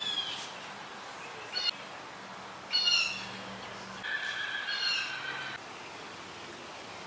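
Birds calling: a short call about a second and a half in, another around three seconds, and a longer repeated call from about four to five and a half seconds.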